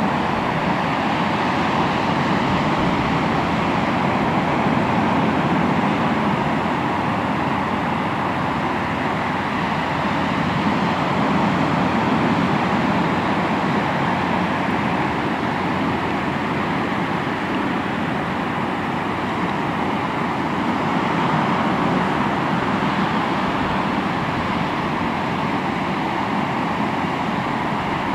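Sea waves breaking and washing on the shore in a steady rush, swelling and easing every several seconds.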